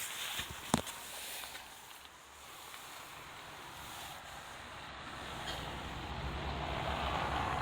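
Scania 124 360 truck: one sharp click, like a door or latch, about a second in, then a low hiss and the engine running, growing louder toward the end.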